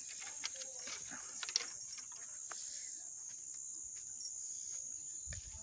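Steady high-pitched insect chirring, with scattered light clicks and rustles from dry brush and sticks being handled.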